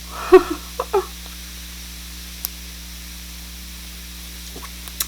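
A short close-miked mouth sound with a brief hum of voice and a few soft clicks in the first second, then a steady low electrical hum and hiss with an occasional faint click.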